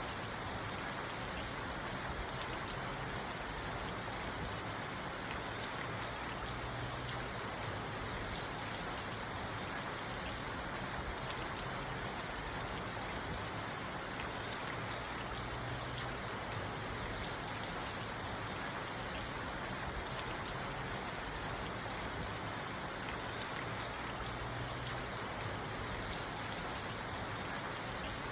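Steady rain falling on a parked car, heard from inside the cabin: an even hiss with scattered drops tapping on the car.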